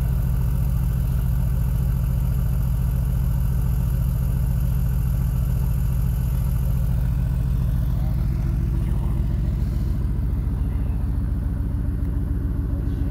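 Mercedes-AMG GT R's twin-turbo 4.0-litre V8 idling steadily, a deep, even exhaust rumble.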